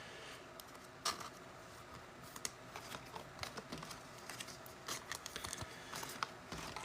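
Faint, irregular light clicks and taps of trading cards being flipped, slid and stacked by hand, with one slightly louder tap about a second in.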